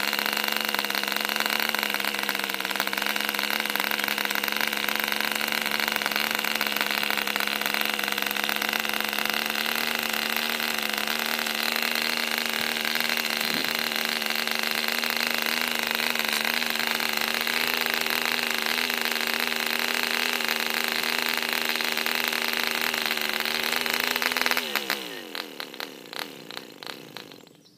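MP Jet 040, a 0.66 cc long-stroke model aero diesel engine, running steadily with its propeller, picking up slightly a few seconds in. About 25 seconds in it slows and stops, its last few firings coming further and further apart.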